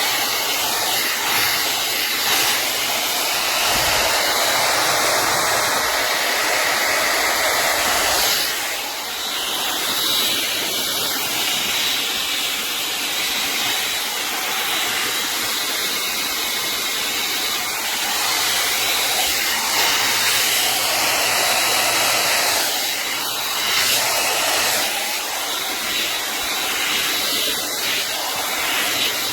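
Hot air dryer brush running steadily as it finishes drying and styling hair: a loud airy fan rush with a faint constant high whine, dipping a little in loudness now and then.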